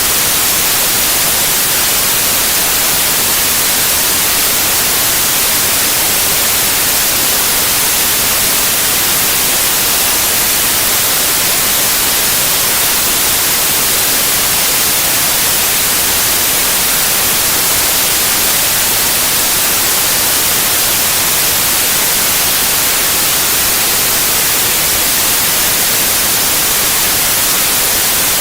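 Steady white noise, a constant even hiss that does not change, brightest in the high frequencies.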